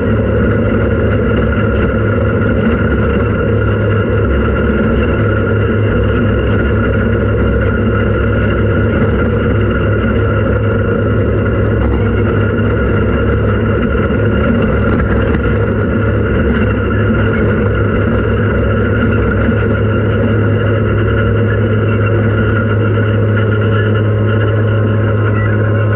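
Off-road race vehicle's engine running at a steady speed, a constant drone with no change in pitch.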